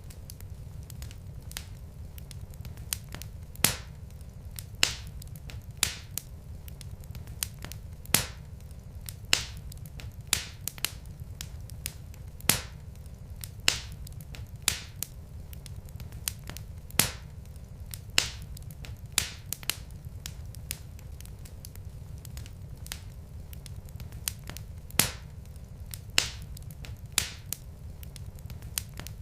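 Wood fire crackling in a fireplace: sharp pops and snaps about once a second, irregularly spaced, over a low steady rumble of burning logs.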